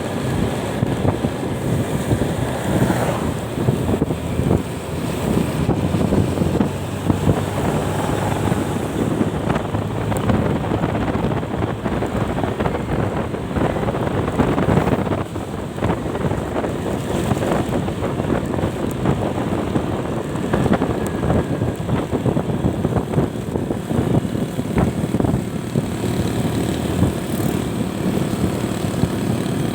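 Wind buffeting the microphone over a vehicle's running engine while riding, a steady loud rush without letup.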